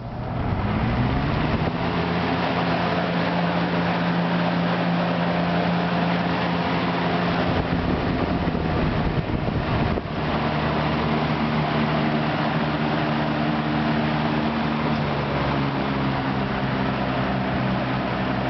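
A Galaxy-made Super box fan, model 3713, starting up: its motor hum rises in pitch as the blades spin up over the first second or two. It then runs at a steady hum with the rush of moving air. About ten seconds in there is a brief click, after which the hum's pitch shifts slightly.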